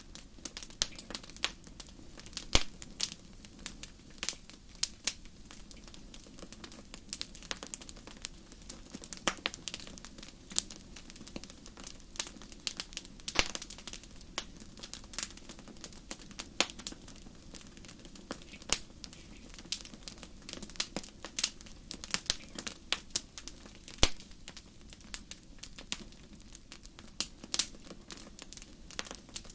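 Wood fire burning in a fireplace, crackling with irregular sharp pops over a soft, steady low rush; the loudest pops come about two and a half seconds in and again near the end.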